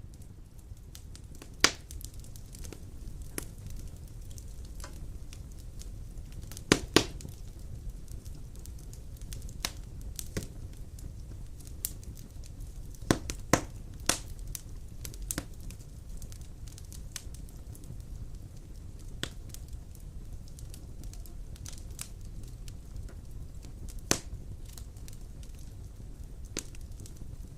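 Wood fire burning in a stone fireplace: a steady low rumble of the flames with scattered sharp crackles and pops, the loudest about 1.5 s in, around 7 s, at 13–14 s and at 24 s.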